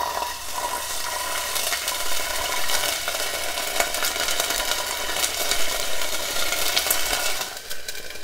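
Ginger paste sizzling in hot sesame oil in a saucepan as it is stirred with a wooden fork: a steady frying hiss full of crackles. The sizzle drops sharply near the end.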